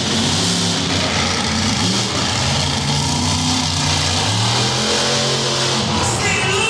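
Monster truck engine revving up and down repeatedly, loud and steady.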